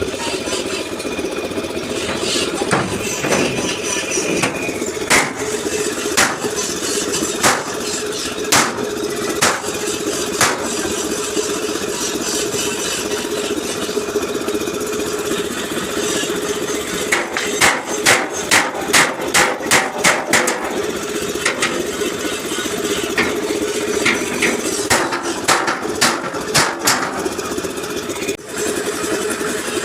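Hammer blows on a truck's steel front bumper, beating out a dent: single strikes every second or so, then a quick run of about ten blows around the middle and another cluster near the end. A steady engine hum runs underneath.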